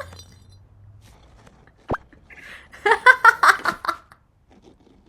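A single short knock about two seconds in, then about a second of a voice in quick broken bursts.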